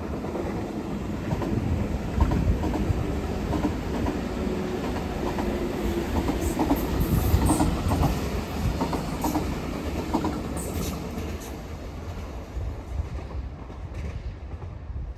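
A train passing at close range, its wheels clattering over the rail joints in a rapid run of clicks, with a few short high squeals from the wheels in the middle. The sound dies away over the last few seconds as the train leaves.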